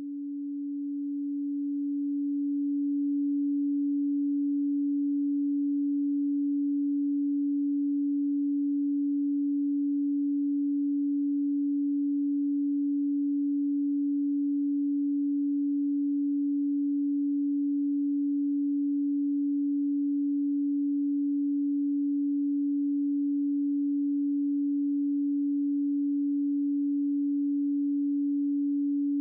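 A pure 285 Hz sine tone, the 'Solfeggio' healing frequency: one steady low hum with no overtones, swelling in over the first three seconds and then holding at a constant level.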